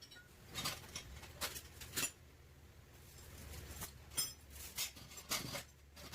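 Irregular metallic taps and clinks, about eight over a few seconds, a few ringing briefly, over a low steady hum.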